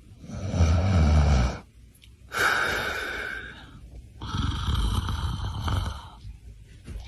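Three long, raspy breath-like sounds from a dog, each lasting one to two seconds, with short pauses between; the middle one is higher-pitched than the first.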